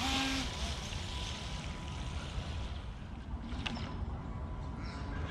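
Faint steady whine of a radio-controlled rescue boat's electric motor running on the water, over a low rumble.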